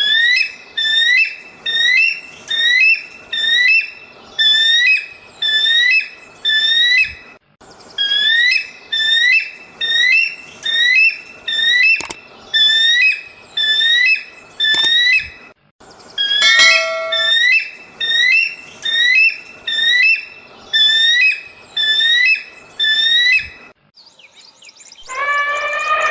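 An animal's high, repeated call: short rising notes at about one and a half a second, in long runs with brief breaks.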